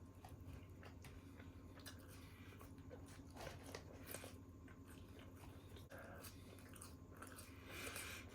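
Faint eating sounds: a person biting and chewing food, with small crunches and scattered clicks over a faint low hum.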